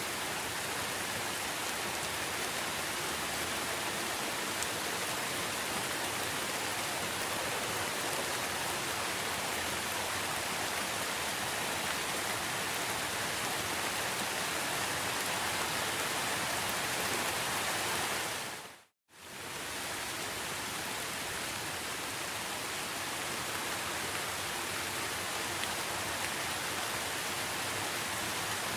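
Steady, even rain falling. About two-thirds of the way through it fades out to silence for a moment and comes straight back, as at the seam of a looped recording.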